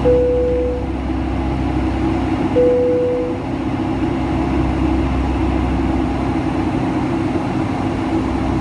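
Two single chimes from the Boeing 757-200's cabin chime system, about two and a half seconds apart, each fading quickly, over the steady drone of the cabin in climb. This is the double chime that indicates the aircraft has reached 10,000 feet.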